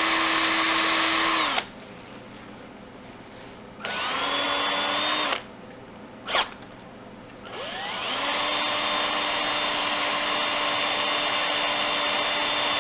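Cordless drill with a long thin bit boring into a frozen block of cooked ground beef, its motor whining steadily. It stops about a second and a half in, runs again briefly around four seconds, then spins up again about eight seconds in for a longer run.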